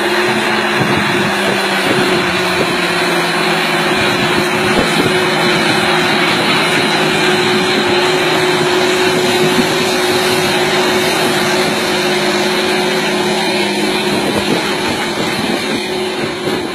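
John Deere tractor's diesel engine running steadily under work, a constant hum over mechanical noise.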